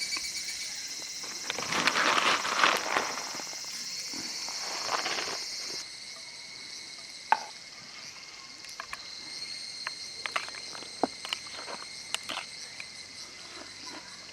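Evening cicadas (higurashi) calling: a high, shrill, finely pulsing trill that cuts off about six seconds in, with a fainter high call carrying on after. Rustling and a scatter of sharp clicks and knocks from camp handling come through in the second half.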